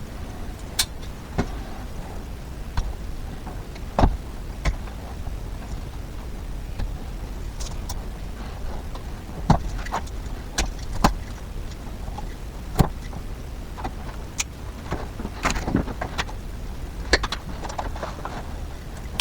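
Irregular clicks, taps and knocks of small hardware and tools being handled while someone searches for a screw, over a steady low hum.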